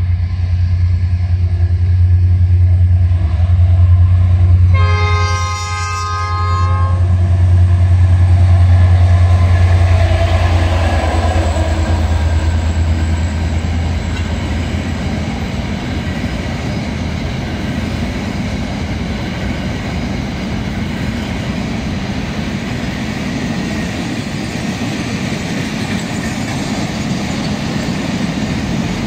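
Diesel freight locomotive approaching and passing with a heavy low engine drone, sounding one horn blast of about two seconds about five seconds in. After the locomotive passes, the engine drone fades and a long container train's wagons roll by with steady wheel-on-rail noise.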